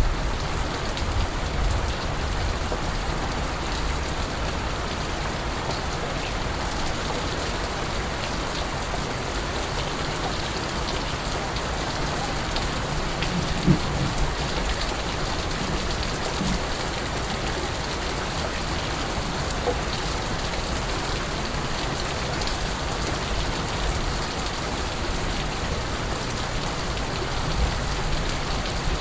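Steady rain falling, a constant hiss of rain on surfaces with scattered individual drips. There is a brief dull thump about fourteen seconds in.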